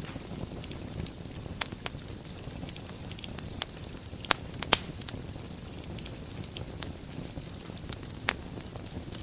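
Wood fire burning in a fireplace: a steady low rumble with scattered sharp crackles and pops. The loudest pops come in a cluster near the middle and once more near the end.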